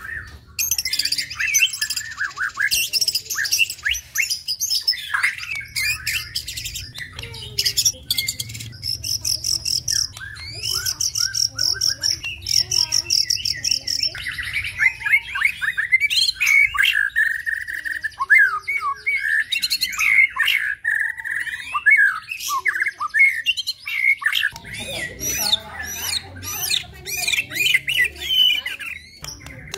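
A caged contest songbird singing a long, varied song of rapid chirps, whistles, harsh chattering notes and fast high trills, with a dense warbling stretch in the middle.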